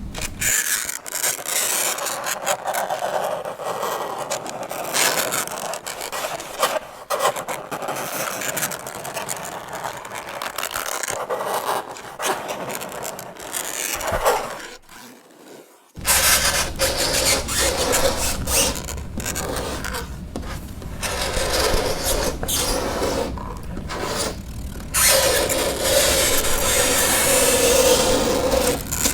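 Fingernails scratching across a chalkboard: harsh scraping strokes, one after another with short breaks, dropping away for about a second and a half just past the middle. A screeching tone rides on the scrape in the last few seconds.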